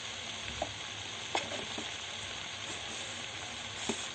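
Malabar spinach, potato and pointed gourd frying in hot oil in a kadai: a steady sizzle, with a few faint clicks.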